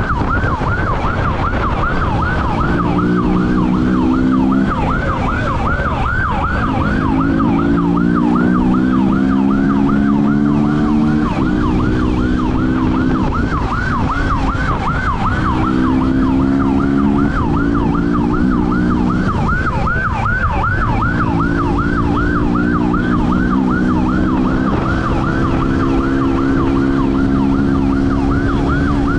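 Police siren on a fast yelp, sweeping up and down about two to three times a second without a break. Under it a vehicle engine pulls hard, its pitch climbing steadily, then easing off and pulling again several times as it accelerates.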